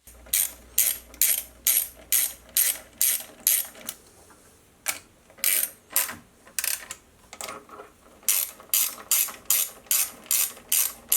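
Ratchet wrench clicking through repeated strokes, about two to three strokes a second, in three runs with short pauses between.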